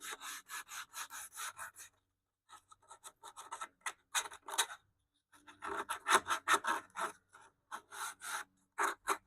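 Sandpaper scrubbing back and forth over a wooden radio cabinet, in quick even strokes of about five a second. It stops briefly twice, then starts again.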